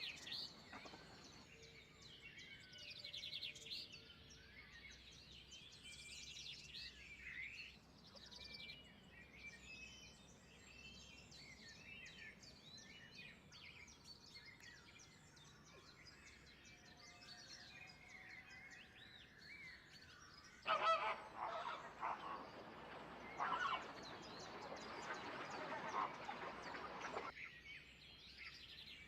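Birds calling outdoors: many small birds chirping and trilling throughout, with a louder, coarser run of calls from a larger bird lasting several seconds in the second half.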